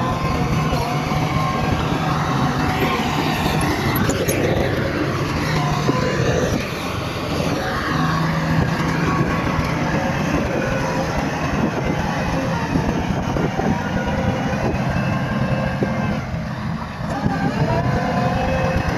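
Bulldozer's diesel engine running hard under load, its pitch rising and falling a few times, with continuous rattling clatter.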